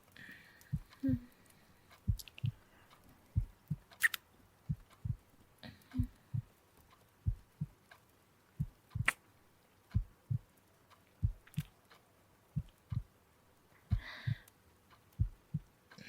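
A slow, steady heartbeat: soft low thumps in lub-dub pairs, repeating about once a second. A couple of faint breaths come near the start and again near the end.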